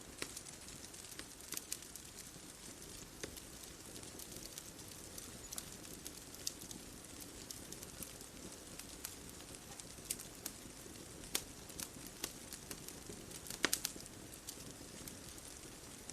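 Bonfire crackling: irregular sharp pops and snaps of burning wood over a soft steady hiss, with one louder pop about three-quarters of the way through.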